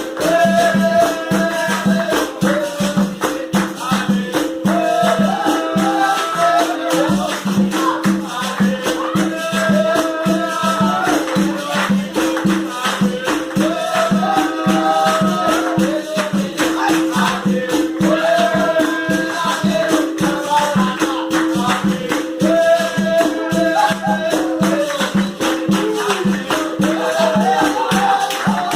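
Capoeira music: a berimbau with its caxixi rattle keeps a steady, repeating rhythm on two alternating low notes, under sung phrases that come round every four seconds or so.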